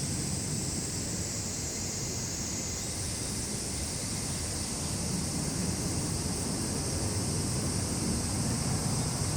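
Summer insect chorus: a steady, high-pitched shrill of cicadas and crickets that shifts slightly higher about three seconds in, over a low steady rumble.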